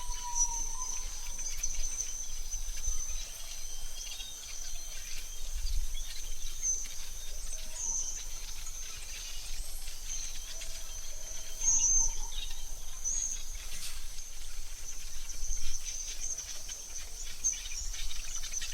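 Forest ambience: a steady high insect trill runs throughout, with scattered short bird chirps and whistles over it and a faint low rumble underneath.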